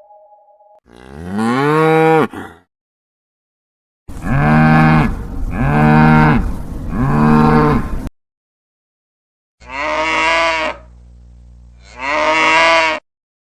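Cows mooing in a string of separate edited clips: one moo, then three moos back to back, then two more with a low hum between them, each cut off cleanly.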